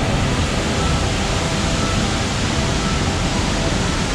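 Pigeon River High Falls, a large waterfall, giving a loud, steady rush of falling water.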